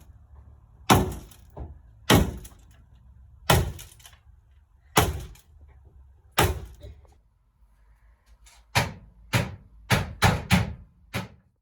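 A series of heavy, sharp knocks or blows: six evenly spaced about a second and a half apart, then a quicker run of about six near the end, each with a short ringing tail.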